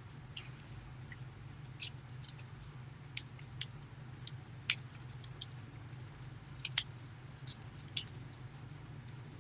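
A sheet of origami paper being folded and creased by hand: scattered small crackles and rustles of paper, over a low steady hum.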